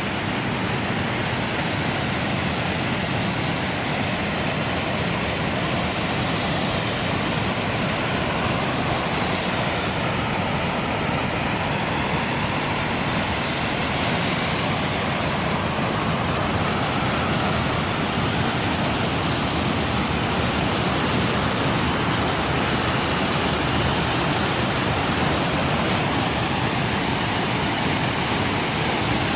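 Waterfall: falling water making a loud, steady rushing noise that does not change.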